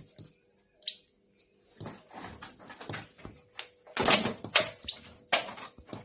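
Common tailorbird at a window pane, tapping and scuffing against the glass in bursts, loudest about two thirds of the way through, with two brief high chirps, one about a second in and one near the end.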